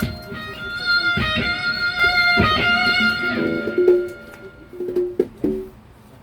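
Electric guitar played loosely between songs: a held high note with overtones over a few low thumps, then a handful of shorter, lower notes that fade out near the end.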